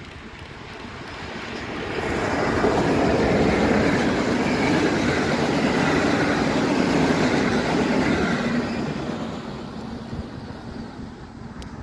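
Electric-locomotive-hauled passenger train passing by on the rails. The rumble of wheels and coaches builds from about one second in, stays loud for about six seconds as the coaches go by, then fades as the train moves away.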